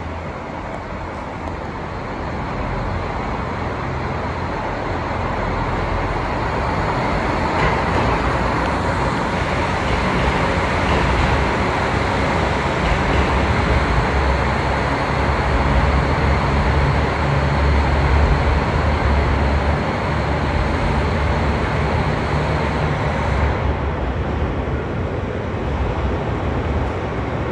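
An electric train rumbling past, growing louder to a peak a little past halfway and easing off near the end, over steady road traffic noise.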